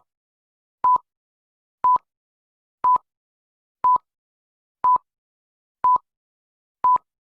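A series of short electronic beeps of one steady mid-pitched tone, one a second with silence between, like a countdown leader's beeps.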